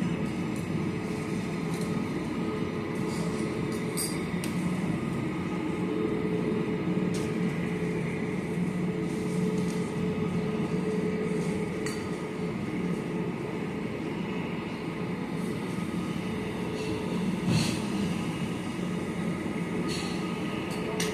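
Steady low mechanical rumble and hum, with a few faint clicks and knocks scattered through it.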